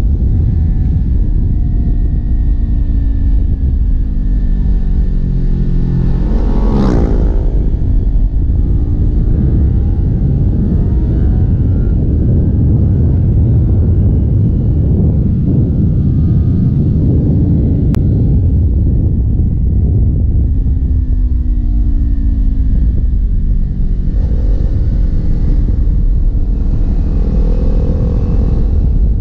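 Kawasaki Ninja 400's parallel-twin engine pulling uphill, its pitch rising and falling as the throttle opens and closes through the bends, over a heavy low rumble. About seven seconds in there is a sharp, steep rising whine.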